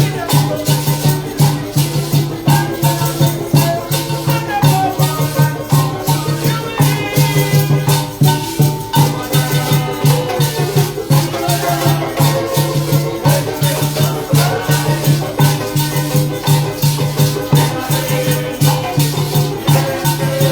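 Parang band music: maracas shaking a quick, steady rhythm over a low bass note that pulses about twice a second, with melody lines above.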